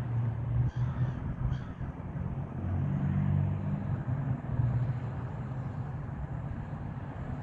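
A few short bird calls, gulls or crows, about a second in, over a steady low rumble.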